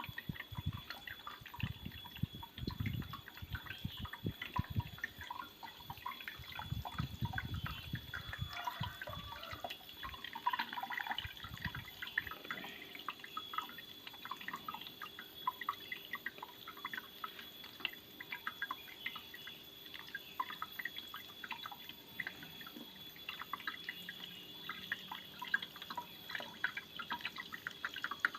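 Water dripping and trickling in quick, irregular drops from a small homemade mini waterfall, with low rumbling through the first ten seconds.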